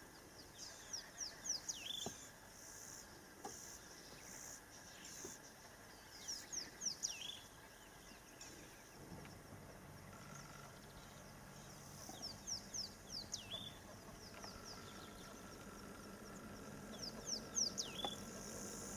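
A bird singing the same short phrase four times, about every five and a half seconds. Each phrase is a quick run of high whistles sliding downward and ending on a lower note. Insects buzz steadily behind it, and a low steady hum comes in about halfway.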